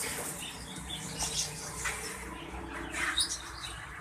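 A crowd of caged birds chirping and calling over one another: many short, high chirps overlapping, over a faint steady hum.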